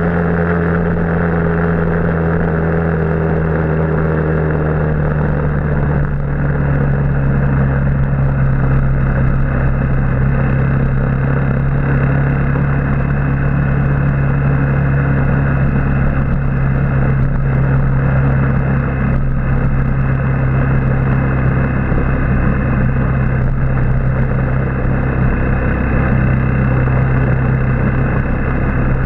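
Motorbike engine running while riding. Its pitch eases down over the first few seconds and then holds steady, over a constant rush of noise.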